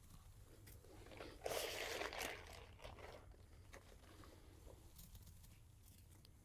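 A bag of calcined clay being handled and poured into the filter bin: a short stretch of crunchy rustling about a second and a half in, then faint scattered clicks.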